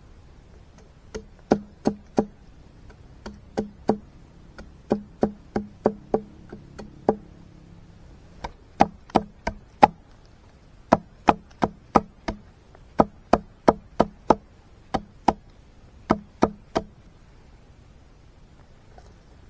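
Repeated sharp knocking blows, in short groups of two to four at about three a second with brief pauses between groups, stopping a couple of seconds before the end.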